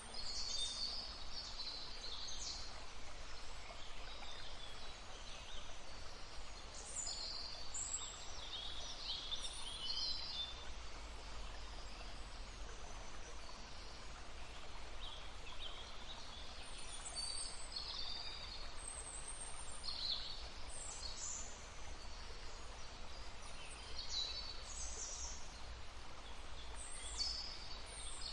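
Small birds chirping and singing in short, scattered phrases over the steady rush of a flowing brook.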